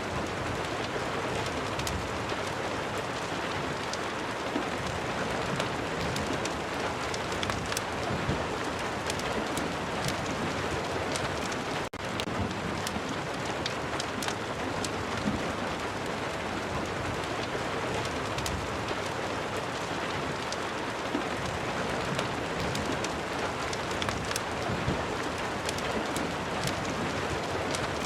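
Steady rain ambience layered with a crackling fireplace: an even hiss of rainfall, dotted with frequent small, sharp pops and crackles. The sound dips for a moment about twelve seconds in.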